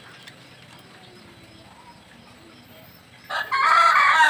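A rooster crows once, loudly, starting about three seconds in, a single drawn-out call that turns buzzy toward its end. Before it there is only faint background noise.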